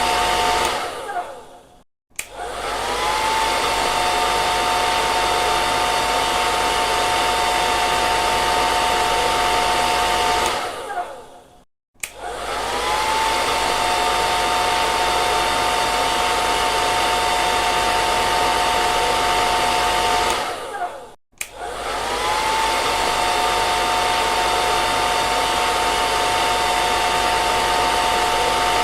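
Electric hair dryer blowing: a steady rush of air with a high motor whine. Three times it is switched off: the motor winds down, there is a brief click, and it spins back up with a rising whine to full speed.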